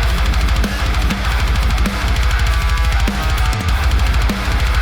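Playback of a programmed deathcore intro: heavily distorted, down-tuned guitars over rapid double-kick bass drums and a snare hit about every two-thirds of a second.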